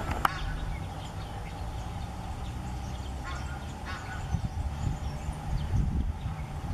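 Birds calling in short bouts about three and four seconds in, over a steady low hum.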